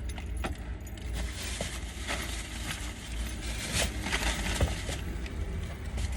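Jingling and rustling from objects being handled, with many small irregular clicks and clinks over a low background rumble.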